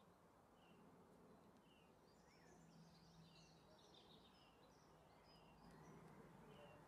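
Near silence: faint birds chirping, short repeated chirps that cluster thickest in the middle, over a low steady hum.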